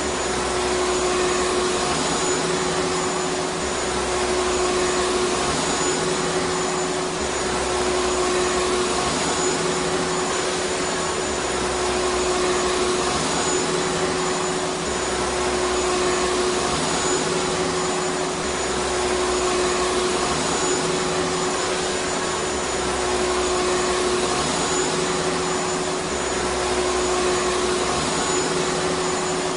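Vacuum cleaner motor running steadily: a dense rushing hiss with a constant hum, unchanging throughout.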